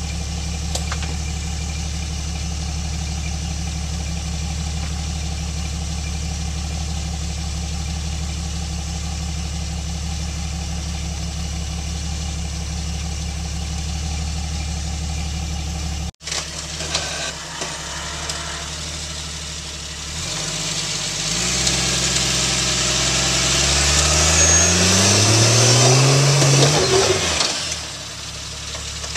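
Jeep Cherokee XJ rock crawler's engine idling steadily. After a brief drop-out about 16 seconds in, it revs up in a long rising pitch under load as the vehicle climbs a boulder, then falls off near the end.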